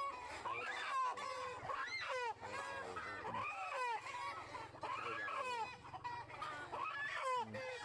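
A flock of chickens clucking and calling over one another, many short rising and falling calls overlapping, over a low steady hum.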